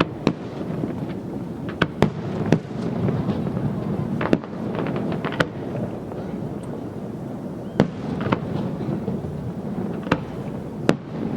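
Fireworks display: a series of sharp, irregular bangs, about ten in all, with a flurry of crackling near the middle, over a steady low background rumble.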